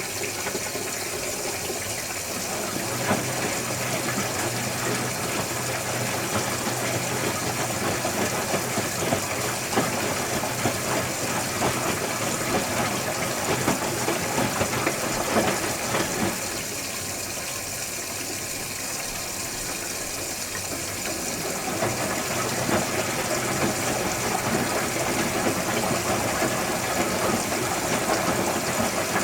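Electrolux Wascator W355H commercial washing machine drum turning the wash load, with a steady motor hum over a busy sloshing, tumbling sound. It stops for a few seconds around the middle, then starts again.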